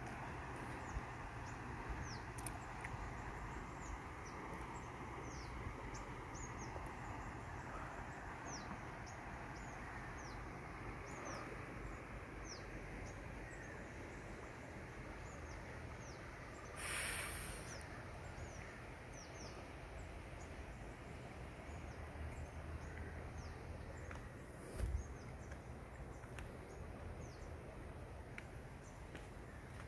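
Birds chirping over a steady background hiss, many short high chirps, each falling in pitch. A brief rush of noise comes about halfway through, and a single low thump towards the end.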